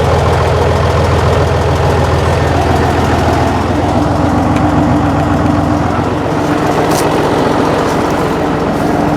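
John Deere 6068 six-cylinder diesel engine of a Fabtek 153 harvester idling steadily, run after a thermostat replacement. A steady whine joins the engine about four seconds in.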